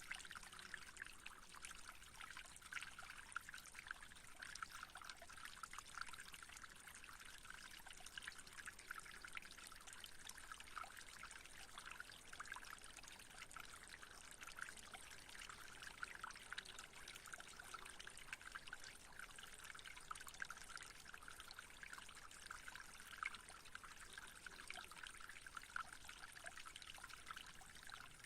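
Faint, steady trickling water with fine splashing flecks, like a small stream or fountain.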